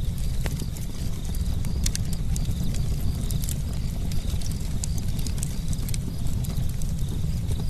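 Campfire crackling, with frequent sharp, irregular pops and snaps of burning wood over a steady low rumble.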